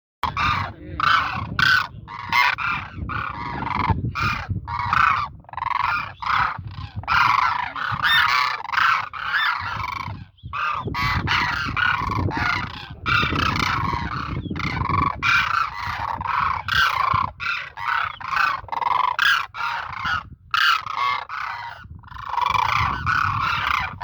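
Demoiselle cranes calling: a dense run of repeated, overlapping honking calls from several birds, with a low rumble underneath.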